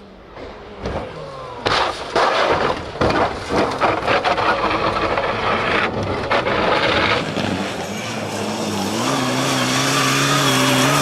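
Rally car sounds: about a second and a half in, a dense run of sharp, irregular bangs and cracks lasting several seconds, then an engine note that rises steadily as the car accelerates.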